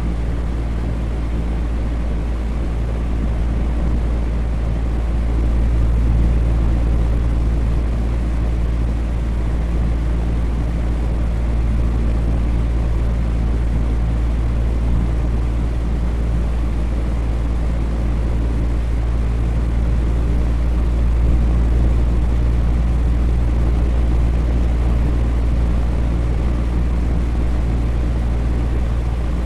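Electric fan running steadily: a low hum with a wash of airy noise above it, swelling slightly twice.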